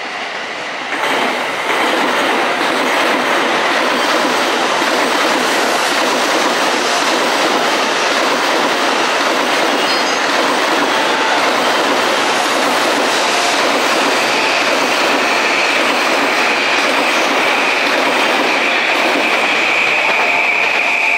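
A train running past on the rails: steady rolling noise with wheel clatter, joined about two-thirds of the way through by a steady high squeal of wheels on the rails.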